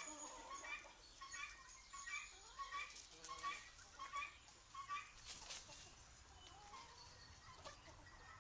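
Chickens clucking faintly, a run of short calls about twice a second that fades after about five seconds.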